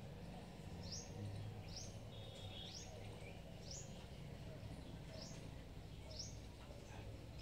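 A bird calling over and over, a short high chirp about once a second, over a steady low background hum.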